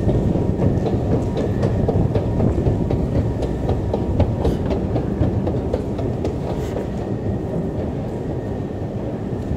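A train running, with a dense low rumble, rattling clicks and a faint steady whine, getting slowly a little quieter.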